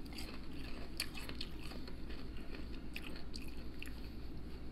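Close-up crunching and chewing of a battered fried oyster with a crisp, flaky panko-style crust: many small, irregular crunches with wet mouth sounds.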